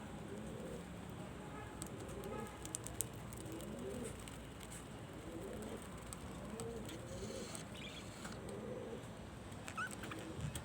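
Domestic pigeons cooing: soft, low coos repeating about every one and a half seconds, with a few short high chirps near the end.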